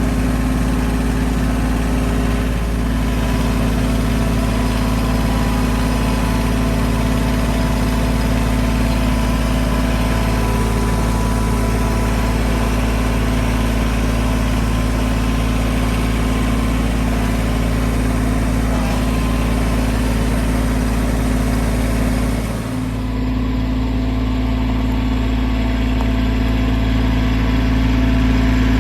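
A vehicle engine idling steadily, with a brief dip in level about 23 seconds in.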